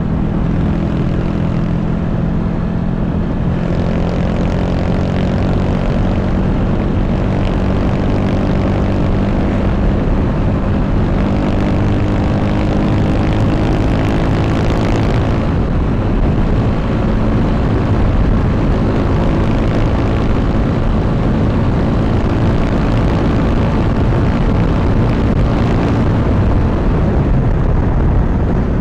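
Honda Wave 125 motorcycle's single-cylinder four-stroke engine running under way, heavy wind noise over it. The engine pitch climbs slowly, drops back about halfway through, then holds fairly steady.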